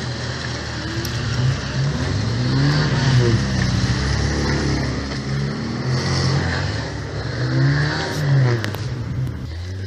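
Off-road 4x4's engine running under load, revving up and down several times as the vehicle works over rough ground.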